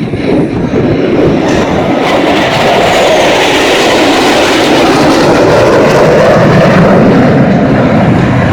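Loud jet engine roar that swells about a second in and holds, its pitch sinking slowly in the later seconds.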